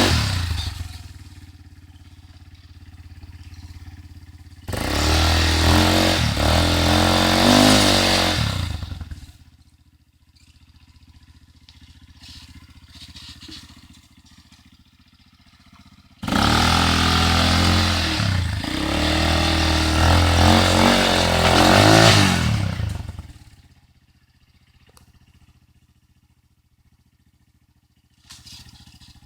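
ATV engine revving hard in three loud stretches, the pitch rising and falling with the throttle. Between them it drops back to a quiet low running, and it fades away after the third stretch.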